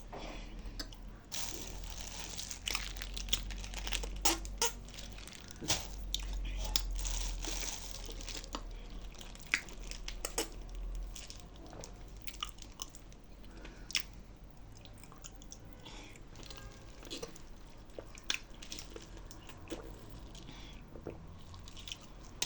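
Close-up chewing of dry nzu edible clay: many sharp crunches and crackles as the chunks break between the teeth, busiest in the first half and thinning out later.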